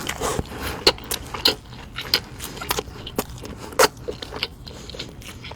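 Close-miked eating of crispy fast food: irregular crunching bites and chewing, with a few louder crunches about a second in, a second and a half in, and near four seconds.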